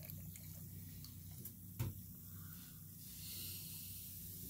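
Faint fizzing of water in a Flush Force toy toilet as the effervescent filler dissolves, over a steady low hum, with a single sharp click a little under two seconds in.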